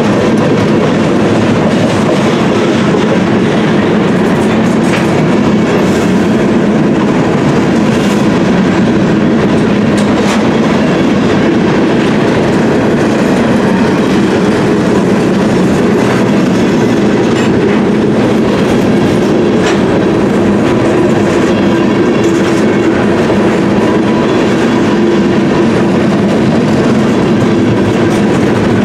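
Covered hopper cars of a grain freight train rolling past: a loud, steady rumble of steel wheels on rail, with scattered clicks as wheels pass over rail joints.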